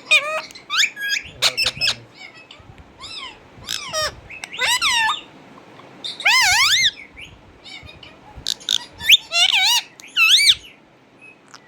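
Pet parrot calling: a string of short whistles and squawks, many of them quick warbling sweeps up and down in pitch, coming in bursts with pauses between.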